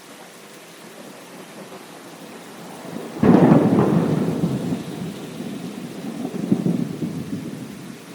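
Thunderstorm: rain falling steadily, then about three seconds in a sudden close clap of thunder that breaks into rumbling, swells once more a few seconds later and fades away under the rain.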